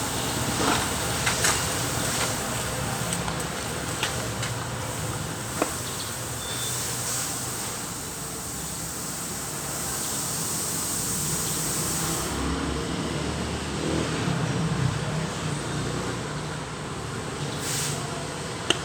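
A vehicle engine running steadily under a noisy background, with a few sharp clicks.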